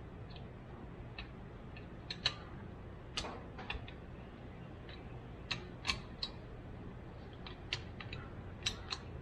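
Irregular light clicks and metal taps from small parts and hand tools being worked on a truck's steering-column shift linkage, over a steady low hum.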